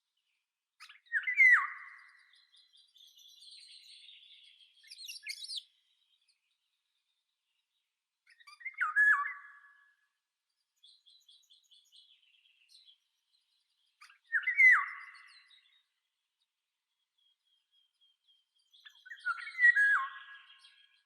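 Wild birds singing: one bird repeats a short phrase of quick notes that drop in pitch, four times about five to six seconds apart, with fainter high twittering from other birds in between.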